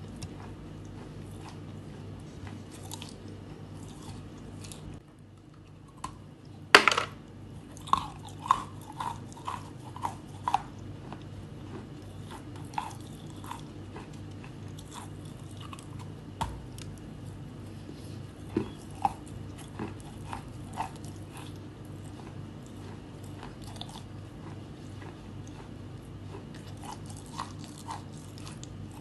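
Close-miked biting and chewing of eating chalk. A sharp crack of a bite about seven seconds in is the loudest moment, followed by a quick run of crisp crunches, then scattered crunches through the rest, over a steady low hum.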